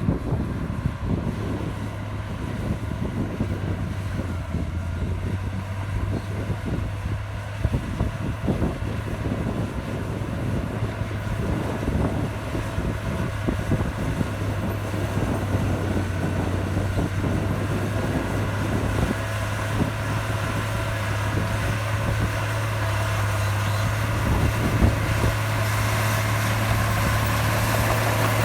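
Komatsu bulldozer's diesel engine running steadily under load with a low hum, growing gradually louder over the last third, with some wind noise on the microphone.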